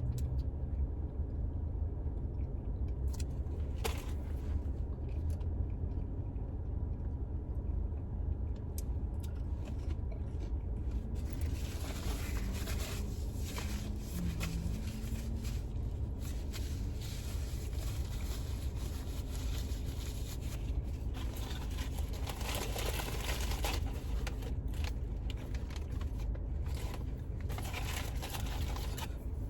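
Eating in a car: chewing with small crunches, clicks and rustling of food packaging, which grow busier about eleven seconds in, over the car's steady low rumble.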